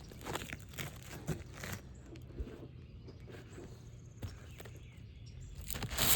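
Scattered scraping, crackling and light clicks as brittle asphalt roof shingles are worked loose by hand and tool, with a louder cluster near the end.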